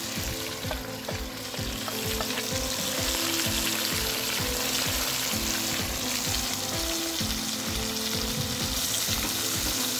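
Pork and freshly added sliced onions sizzling in hot oil in a cast-iron kazan, with a metal spoon pushing and stirring them in. Background music with a steady beat plays over the sizzle.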